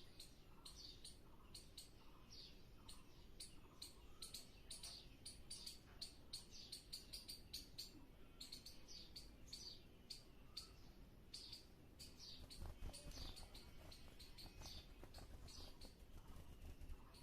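Small birds chirping faintly: a rapid run of short, high chirps, several a second.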